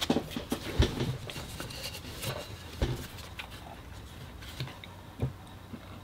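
A person chewing a mouthful of food, with scattered faint clicks and a few soft knocks.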